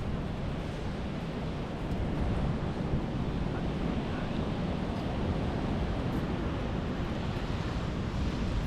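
Wind buffeting the microphone: a steady rushing noise with an uneven rumble in the low end.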